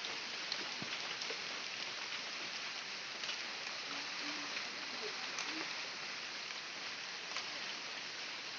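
Steady rain falling, with scattered drips and taps.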